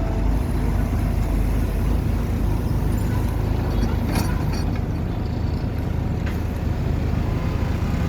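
Engine of a heavy machine running steadily with a low hum, with a couple of brief clicks about four and six seconds in.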